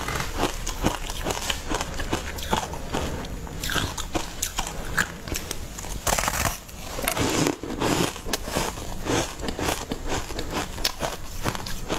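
Close-up eating sounds of a person biting into and chewing a soft layered cake coated in green matcha-style powder: wet mouth noises with many short clicks and crackles.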